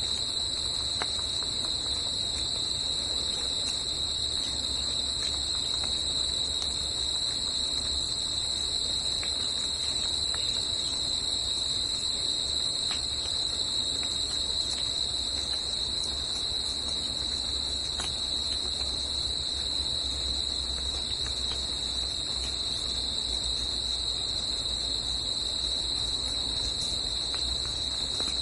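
A continuous chorus of insects trilling at a steady high pitch, with an even low background hiss and a few faint ticks.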